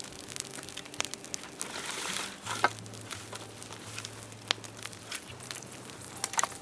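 Dry bamboo crackling and snapping: irregular sharp clicks over a faint rustle.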